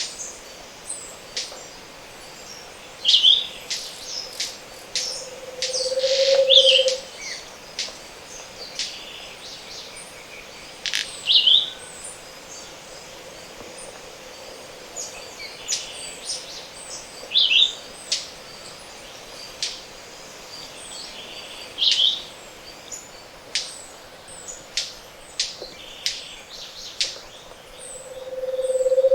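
Tropical montane forest dawn chorus. A Scaled Antpitta's low, hollow hooting song swells up and fades twice, once about six seconds in and again near the end. Over it, another bird repeats a short high downslurred note every few seconds among scattered sharp clicks and chirps from other birds.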